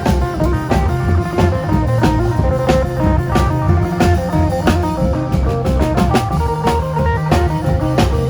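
Isan phin band music in lam phloen style: an amplified phin, the Isan plucked lute, plays a melody over a drum kit and bass with a steady, driving beat.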